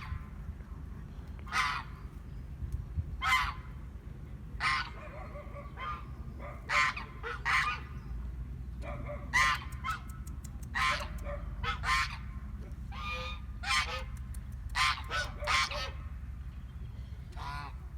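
Geese honking: short, harsh calls repeating about once a second, over a steady low rumble.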